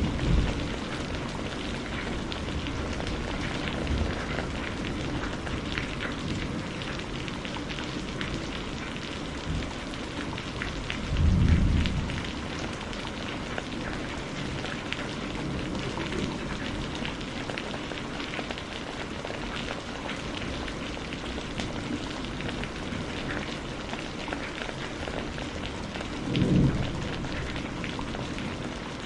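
Steady rain falling, with the patter of individual drops. Low rumbles of thunder come through it: one fading away at the very start, a louder one about eleven seconds in and another near the end.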